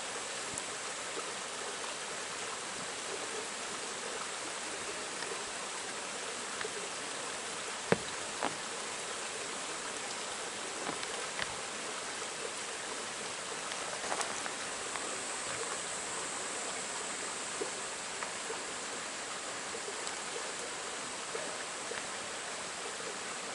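Mountain stream flowing steadily over rocks, a modest flow of little water, with a few scattered faint ticks.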